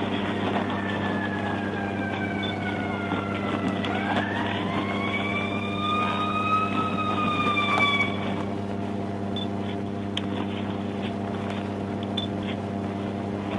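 Emergency vehicle siren in a slow wail: it falls, rises again and peaks about two thirds of the way through, then falls and stops about 8 seconds in. A steady low hum runs beneath it throughout.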